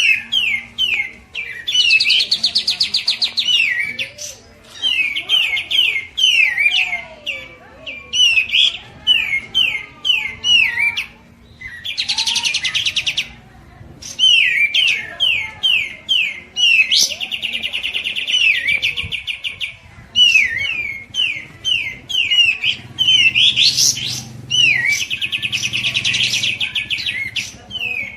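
Songbirds calling, from a recording of kapas tembak and cicak jenggot song: a steady run of sharp, hooked chirps repeated several times a second, broken four times by a dense rapid trill lasting about two seconds.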